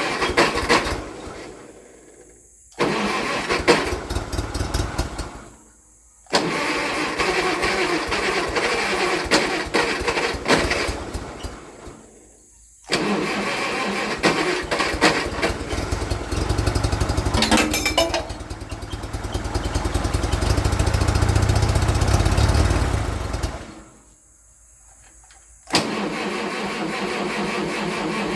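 Farmall Cub's starter motor cranking its four-cylinder flathead engine in five separate tries with short pauses between, the longest lasting about eleven seconds, without the engine catching. The owner puts the failed start down to a battery too weak to turn it over.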